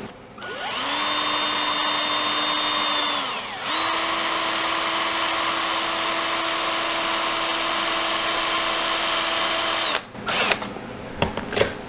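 Electric drill with a long thin bit boring into a block of frozen cooked hamburger, a steady motor whine. It runs for about three seconds, stops briefly, then runs again for about six seconds before stopping near the end, followed by a few handling clicks.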